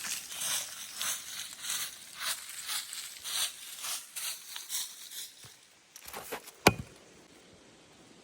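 Rhythmic crunching rustles, about two to three a second, stopping about five seconds in; a single sharp crack follows near the end.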